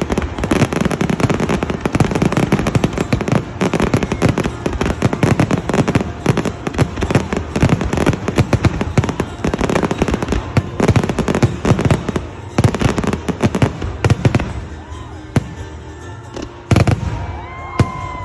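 Fireworks display: a dense barrage of rapid bangs and crackles that thins out about three-quarters of the way through, with one last loud bang near the end.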